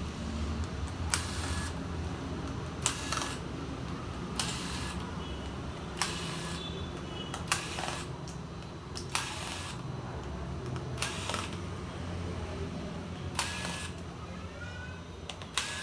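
A series of short, sharp clicks, about eight of them, each with a brief hiss, coming every one and a half to two seconds over a steady low hum.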